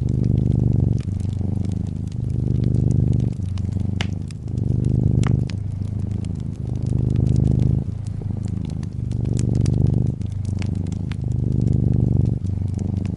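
Domestic cat purring close up: a continuous low rumble that swells and dips with each breath, about a second per phase. Over it, a wood fire crackles with scattered sharp pops, two louder ones about four and five seconds in.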